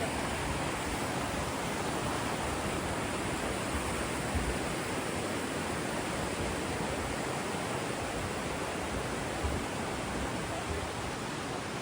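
Steady rushing of river rapids: an even, unbroken water noise with no change in level.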